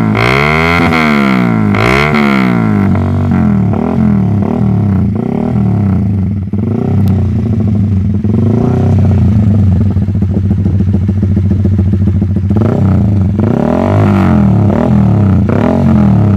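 Motorcycle engine through a Pro Liner TR1 racing exhaust being revved: quick throttle blips rising and falling about once a second at the start, steadier running in the middle, then more blips near the end.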